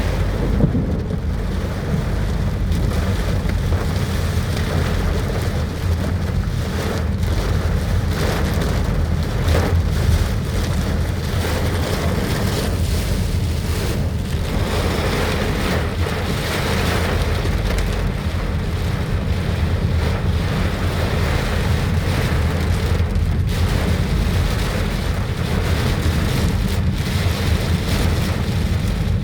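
Heavy rain pouring down in strong, gusting wind, the wind rumbling on the microphone.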